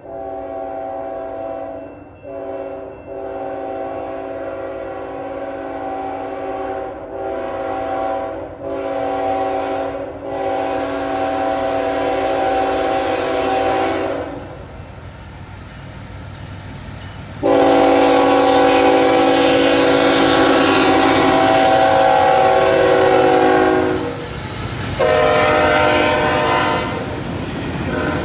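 Locomotive multi-chime air horn sounding a long series of blasts: a run of blasts with short breaks, a pause of a few seconds, then a long, loudest blast and a shorter final one. A faint high-pitched wheel squeal begins near the end as the train rounds the curve.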